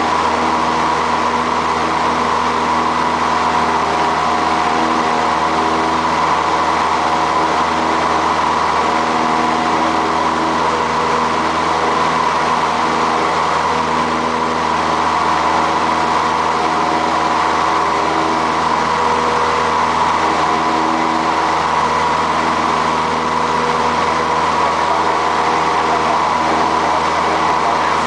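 Light single-engine aircraft's engine and propeller droning steadily in flight, heard from inside the cabin.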